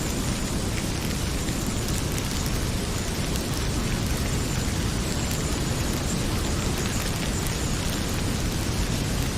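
Heavy rain pouring steadily, mixed with a wood fire crackling in a fireplace, its small sharp pops scattered throughout over a deep, even rumble.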